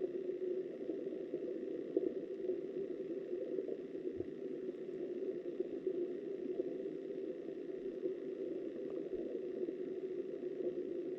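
Steady, muffled rush of flowing river water heard through an underwater camera, dull and low with almost no treble.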